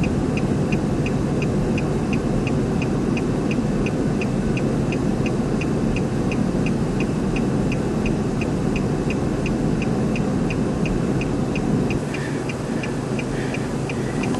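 A car's electronic warning chime beeping evenly, about two and a half times a second, over a steady rumble of wind and a running vehicle. The rumble eases slightly near the end.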